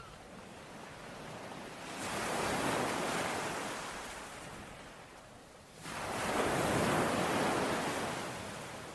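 Ocean waves washing onto a shore, two in turn: the first swells up about two seconds in and drains away, the second breaks suddenly about six seconds in and slowly fades.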